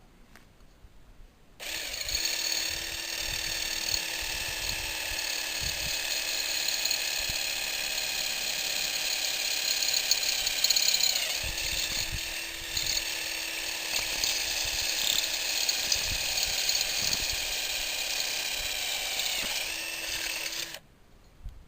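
Electric drill running steadily while drilling holes through a clamped pair of shelter slats, its pitch sagging briefly twice as the bit bites under load. It starts about two seconds in and stops shortly before the end.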